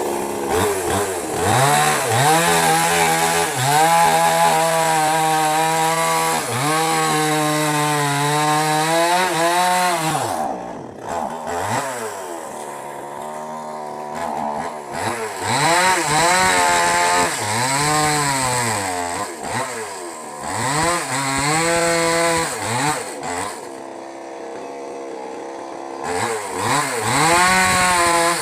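Small petrol mini chainsaw cutting wood, its engine revving up and down over and over as it bites into the log. The engine eases back to idle twice, about a third of the way in and again near the end.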